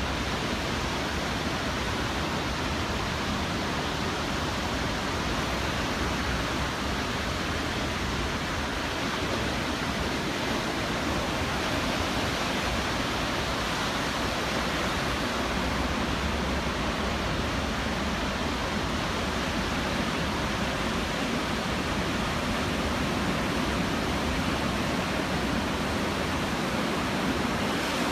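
Ocean surf on a beach, stirred up by a passing typhoon: a steady, even rushing noise with no single wave crash standing out.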